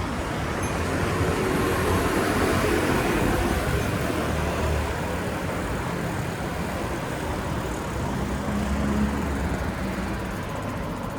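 City street traffic: motor vehicles running past with a low rumble, swelling a couple of seconds in and again about eight seconds in.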